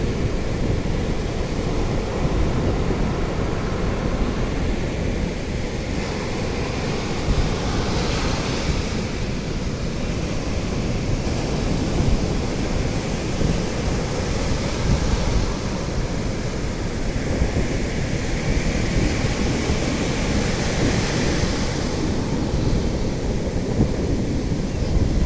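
Sea waves washing ashore in a bay, the hiss of the surf swelling and fading several times, under a steady low rumble of wind on the microphone.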